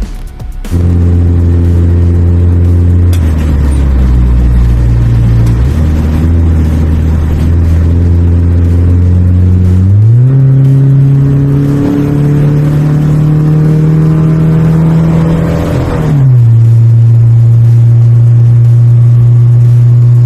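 Honda B20B 2.0-litre inline-four in a Civic with an automatic gearbox, heard from inside the cabin while driving. The engine note holds steady, rises quickly about ten seconds in and falls back about sixteen seconds in.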